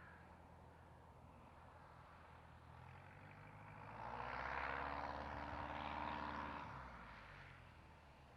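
Light propeller aircraft's piston engine droning as it passes: it grows louder from about four seconds in and fades after about seven seconds.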